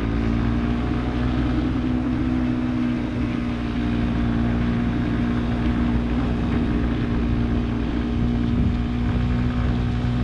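Motorcycle engine running steadily under way, its pitch rising slightly in the first second and then holding.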